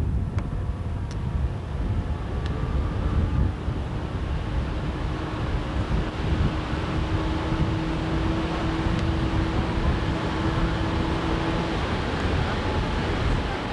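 Boat's outboard motor running steadily under heavy wind buffeting on the microphone, with a steady hum holding through most of the stretch.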